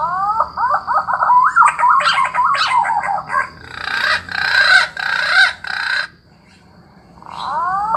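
Recorded bird call played on a loop through a small bird-caller loudspeaker. It opens with a run of quick rising whistled notes and builds into a dense, rapid chatter. It breaks off for about a second, then the same opening starts again near the end.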